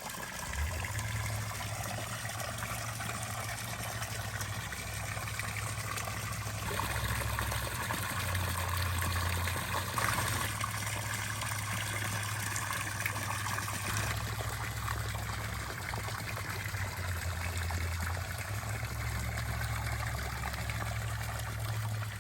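Water fountain running: water trickling and splashing steadily, with a low hum underneath that swells and fades.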